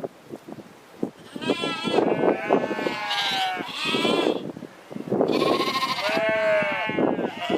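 Several sheep bleating, their calls overlapping, in two bouts: one starting about a second and a half in, the other from about five seconds in.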